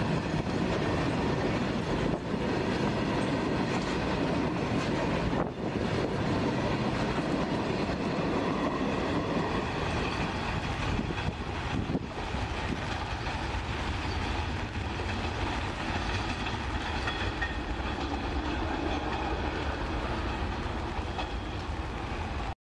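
Freight train of flat wagons running past on the track, the wheels rolling and clattering over the rails. The tail then draws away down the line, a little quieter after about halfway.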